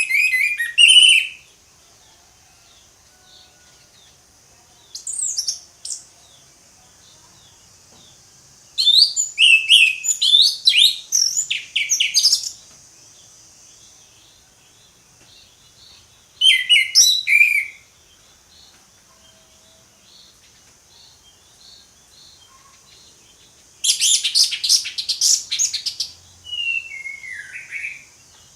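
Orange-headed thrush (anis merah) singing loud, varied, fast whistled song phrases in six separate bursts, each about one to three and a half seconds long, with pauses of a few seconds between them. A faint steady high hiss lies underneath.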